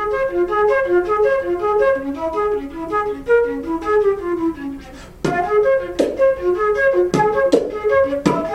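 Flute playing a quick run of short notes in a repeating pattern. About five seconds in, sharp beatboxed percussive hits begin to punctuate the notes, in the beatbox-flute style.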